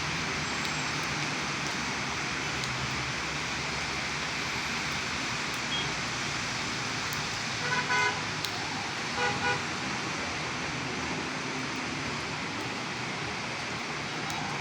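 Heavy rain falling steadily. About halfway through, a car horn gives short toots in two quick groups.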